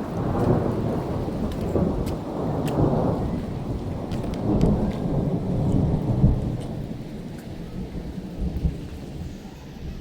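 Rolling thunder rumbling in swells over steady rain, with scattered raindrop ticks; the rumble eases off in the second half.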